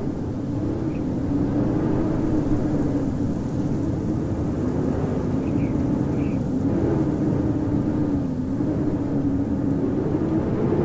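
Howling winter wind: a steady rushing with a low moaning howl that slowly rises and falls in pitch. A few faint, short high chirps sound over it.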